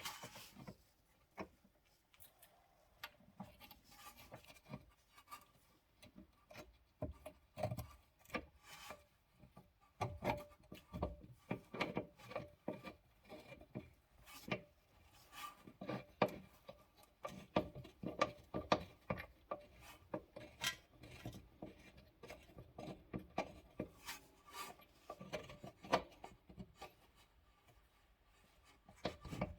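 Irregular clicks, knocks and scraping of hand work with tools and metal parts, at times several a second, busiest from about ten seconds in.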